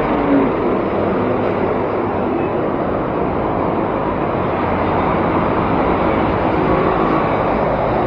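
Steady rush of wind on the microphone and road traffic noise while cycling along a busy road, with a faint hum of passing vehicles.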